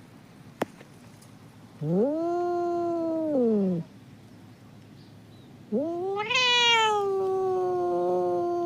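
A domestic cat giving two long, drawn-out meows, the second longer and rising in pitch early on before falling away at the end. A short click comes just before the first meow.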